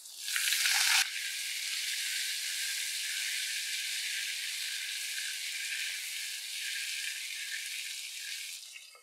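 Potato wedges and chopped tomato sizzling in hot mustard oil in a pan while being stirred. The sizzle is louder for about the first second, then settles into a steady hiss that fades out near the end.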